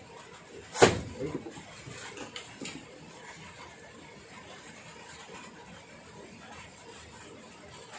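A sharp knock about a second in and a few lighter clicks over the next two seconds, over a steady faint hiss of light rain falling on the water.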